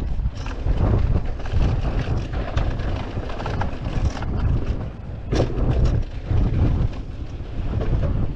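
Wind buffeting the microphone, with rumble and rattle from a mountain e-bike riding fast down a dirt trail. The noise swells and falls, with a sharp knock about five seconds in.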